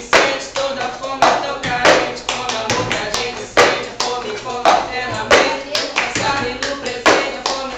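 Cup game rhythm: hand claps and a cup tapped and slapped on a table in a pattern that repeats about every two seconds, with voices singing along.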